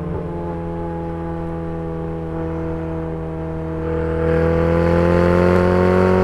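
Ferrari 488's twin-turbo V8 through a VRP valvetronic exhaust, accelerating with its pitch rising slowly and steadily, growing louder about four seconds in.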